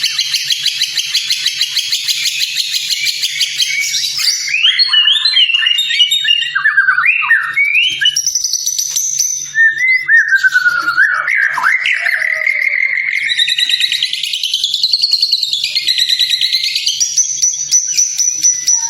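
White-rumped shama singing: a fast trill of repeated notes, then a run of varied whistled phrases with rising and falling sweeps, and another fast trill from about two-thirds of the way through.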